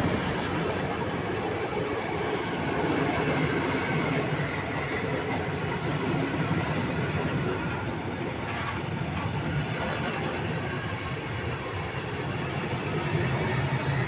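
A train running past on the track, a steady noise of wheels on rails.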